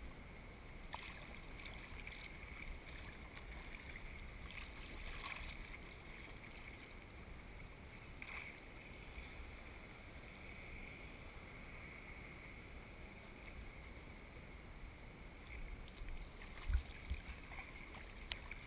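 Water lapping and sloshing around a surf kayak sitting on the sea, with a few brief louder splashes and a couple of low bumps near the end.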